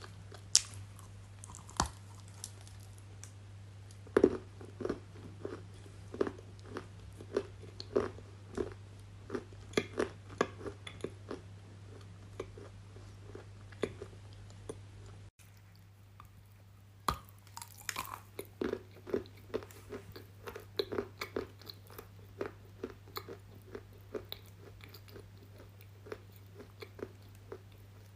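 Close-miked crunchy eating: sharp crunching bites followed by steady chewing, roughly one to two crunches a second. About halfway through, the sound cuts to a second bite-and-chew sequence, with a low hum under it.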